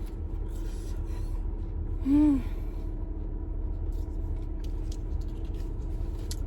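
Steady low rumble inside a car with faint crinkles and clicks of someone eating, and one short hummed 'mm' about two seconds in.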